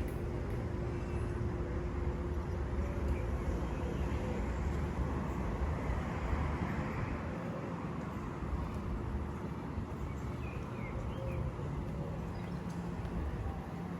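City street ambience: a steady rumble of road traffic with a continuous low hum underneath.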